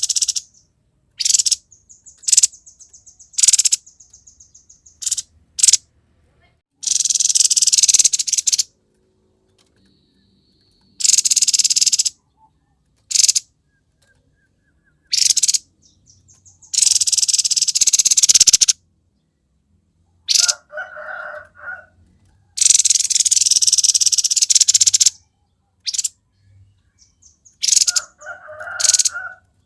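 Grey-headed babbler calling loudly: harsh, rasping chatter bursts of a second or two, alternating with short sharp chips and a rapid high trill about two seconds in. Twice, near the middle and near the end, a lower buzzy call.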